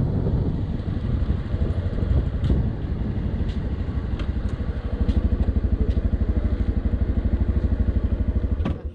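Motorcycle engine easing down and then idling with a regular throb, with a few light clicks along the way. It cuts off suddenly near the end as the engine is switched off.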